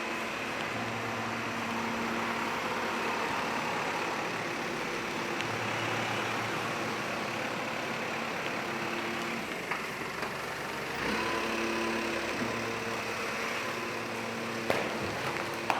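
Steady mechanical hum and rushing noise with several droning tones that fade in and out, and two sharp clicks near the end.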